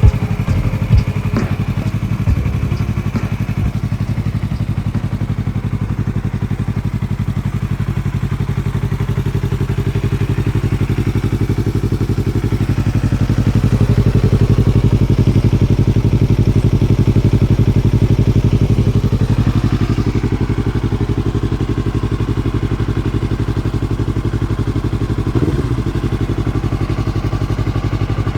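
Yamaha R3 parallel-twin motorcycle engine running through an aftermarket exhaust. It idles, is brought up to a higher steady speed about ten seconds in, holds there, and drops back to idle around twenty seconds in. A few sharp knocks sound right at the start.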